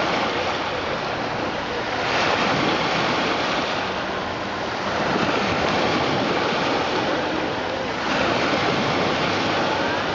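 Sea waves washing onto the shore, the rush of water swelling about every three seconds.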